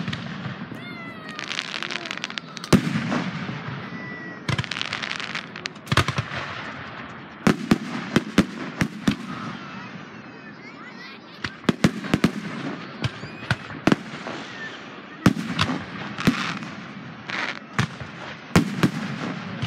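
Aerial firework shells bursting one after another: an irregular run of sharp bangs, with crackling between them.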